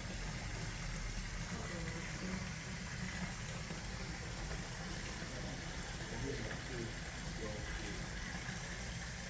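Steady background hum and hiss with no distinct tool strikes or engine sounds.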